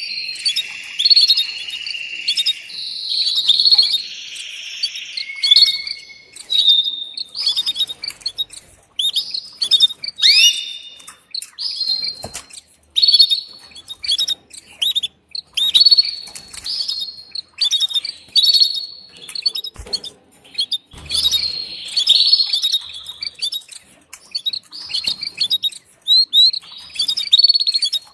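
Female canary calling to attract a mate: a run of short, high chirps and call notes repeated over and over, with a denser buzzy stretch in the first few seconds.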